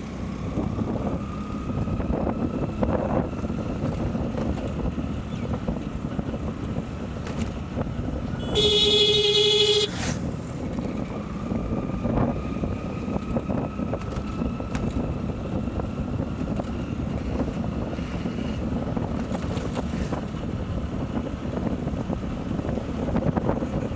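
Motorcycle riding along with steady engine, wind and road noise, its engine note rising slowly. About nine seconds in, a vehicle horn honks once for about a second, the loudest sound here.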